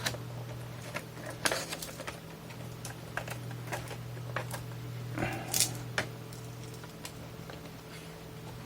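Scattered light clicks and taps of small screws and a screwdriver being handled while putting a cassette multitrack recorder's case back together, over a steady low hum.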